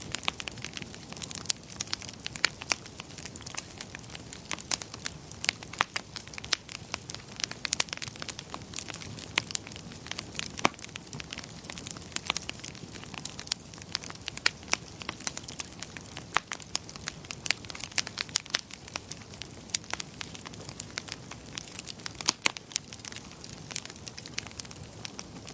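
Wood fire crackling and popping: irregular sharp snaps, several a second, over a steady low hiss of burning.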